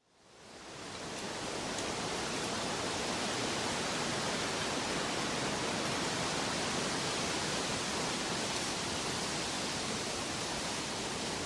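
Steady, even rushing noise with no rhythm or tones, fading in from silence over about the first second and then holding level.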